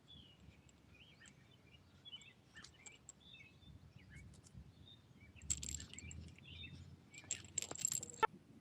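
Faint birds chirping in the background, with a spell of rustling and sharp clicks close to the microphone from about five and a half seconds in.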